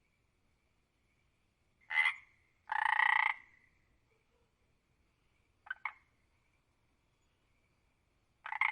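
A frog croaking in separate calls: a short croak about two seconds in, a longer one right after, two quick short clicks about six seconds in, and another long croak starting near the end.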